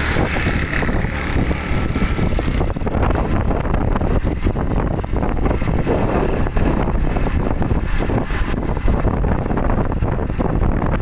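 Loud, steady low rumble of wind buffeting the microphone, gusting unevenly.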